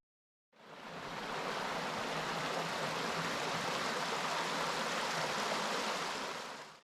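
Steady rush of flowing water from a stream, fading in about half a second in and holding evenly.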